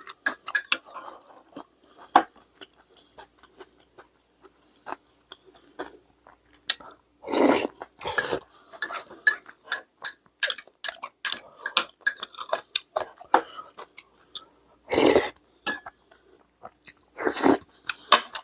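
Eating at a table: chewing and the short clicks of chopsticks or a spoon against bowls and dishes, with a few louder half-second bursts of noise, about 7.5, 8 and 15 seconds in and once more near the end.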